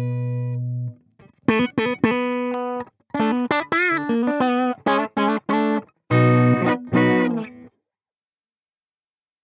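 Electric guitar with humbucker pickups played through a tube preamp pedal. A held chord is cut off about a second in, followed by a short lick of picked notes with vibrato and a final ringing chord, then silence for the last couple of seconds.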